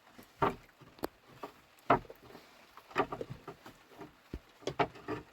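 Irregular knocks and scrapes from handwork, a dozen or so spread unevenly, the loudest about half a second and two seconds in.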